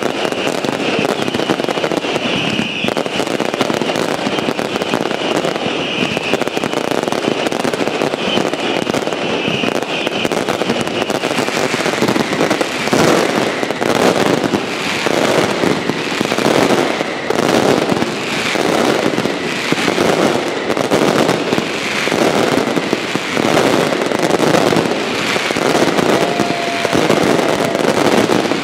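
Aerial fireworks barrage: a dense, continuous crackling and popping of bursting stars, loud throughout. About halfway through, heavier shell bangs come in a quick, fairly regular beat of roughly one a second over the crackle.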